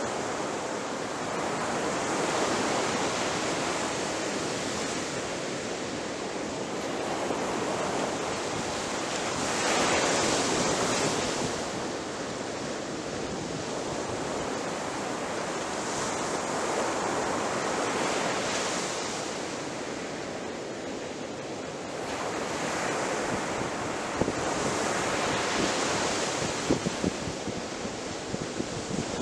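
Ocean waves breaking on a beach: the surf swells and ebbs every few seconds, loudest about ten seconds in, with a continuous hiss of wash between breaks. Near the end there are faint crackles.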